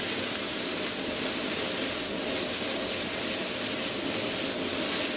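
Vegetables sizzling steadily in oil in a hot 14-inch cast iron wok over high heat.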